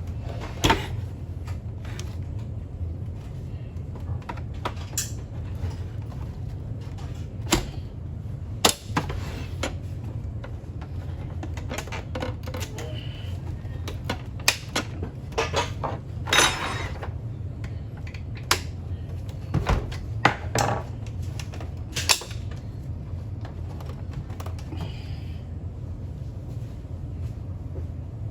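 Irregular sharp clicks and knocks of tools and parts being handled while a Bosch Vero Barista coffee machine is taken apart, about a dozen spread unevenly, over a steady low hum.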